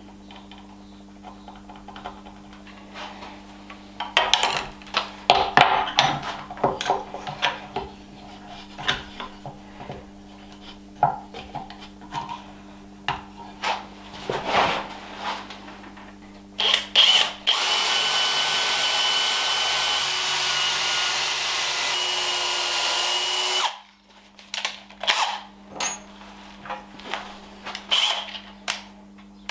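Knocks and clicks from handling tools and wood, then a power drill running steadily for about six seconds, pre-drilling a screw hole, before stopping and more clicks follow.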